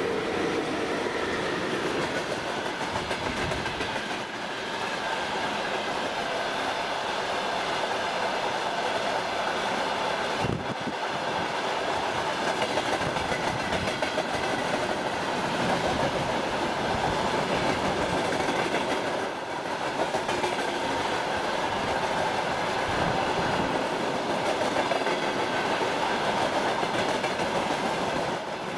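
Freight train hauled by a VL10 electric locomotive passing close by: the locomotive goes past at the start, then a long string of tank cars rolls by with a steady noise of steel wheels on the rails.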